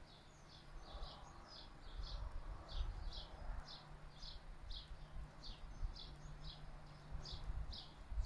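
A bird chirping over and over, short high notes about twice a second, over the low, gusting rumble of a breeze blowing on the microphone.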